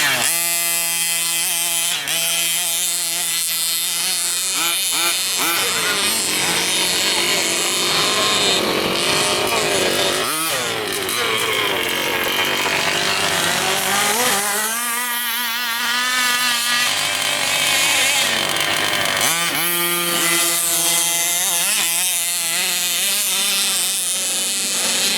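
Small two-stroke petrol engines of 1/5-scale gas RC cars running and revving, their pitch rising and falling again and again as the cars speed up and slow down.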